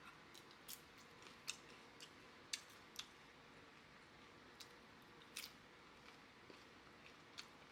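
A mouth chewing a Doritos-topped elote: scattered sharp, crunchy clicks at uneven intervals over a quiet background.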